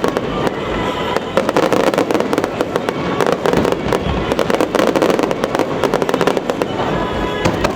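An aerial fireworks display: a dense, continuous run of rapid bangs and crackling pops.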